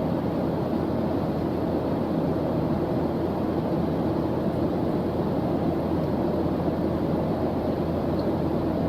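Steady white-noise ambience track: an even, dull hiss weighted toward low pitches, unchanging throughout.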